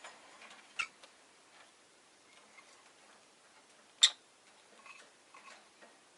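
Sharp clicks and taps from a cage of rosy-faced lovebirds: one a little under a second in, a louder one about four seconds in, with faint scattered small scratches and peeps between them.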